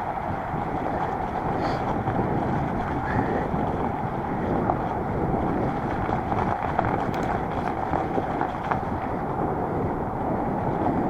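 Steady rushing of wind on the microphone during a fat-bike ride, with no breaks or distinct events.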